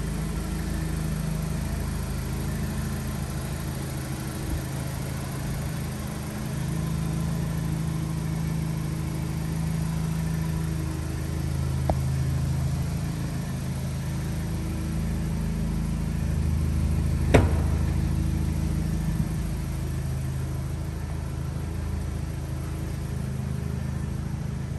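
Vauxhall Astra VXR's 2.0-litre turbocharged four-cylinder engine idling steadily, its pitch shifting slightly. There is a sharp click about two-thirds of the way through.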